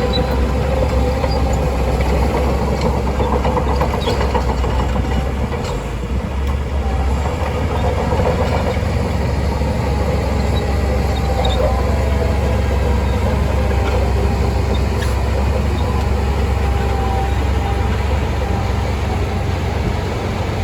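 Shantui DH17C2 crawler bulldozer working: its diesel engine runs steadily under load, with the clank and squeal of its steel tracks, and the engine eases off briefly about six seconds in.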